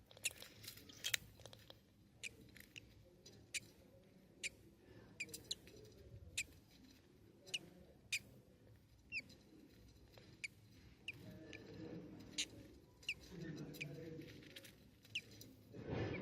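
Newly hatched budgerigar chicks peeping: short, high, slightly falling squeaks, about one or two a second. Soft rustling in the nest joins in during the last few seconds.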